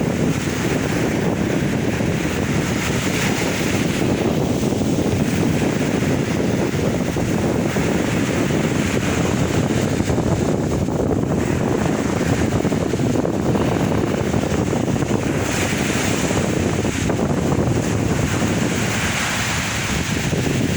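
Sea waves breaking and washing ashore: a steady rush of surf that swells and ebbs every few seconds.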